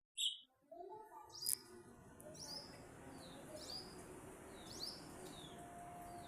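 Pet parrots chirping: two sharp loud calls in the first second and a half, then short high chirps about once a second.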